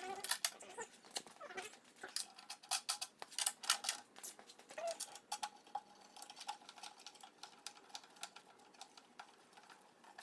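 Irregular light clicks, taps and rustles of things being handled, thicker in the first half.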